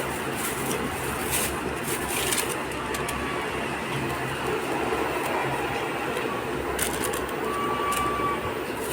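Steady mechanical noise with a few sharp clicks scattered through it.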